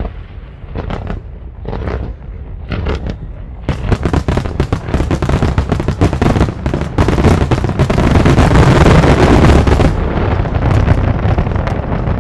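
Aerial fireworks exploding: a few separate bangs, then from about four seconds in a dense, rapid barrage of bangs and crackle that is loudest a little past the middle and thins near the end.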